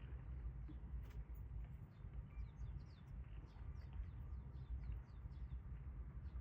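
Wind rumbling on the microphone, with small birds giving many short, high chirps throughout.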